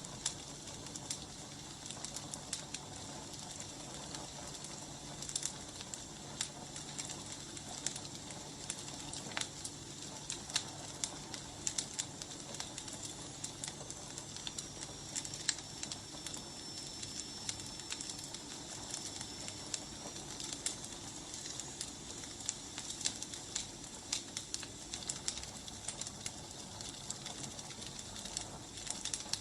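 Firewood burning with steady hiss and frequent irregular crackles and pops. A faint high whistling tone dips, holds for several seconds in the middle, then fades.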